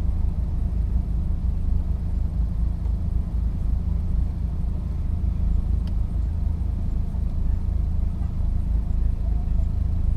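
2008 Saturn Sky Redline roadster on the move with the top down: a steady low rumble of engine, road and wind noise.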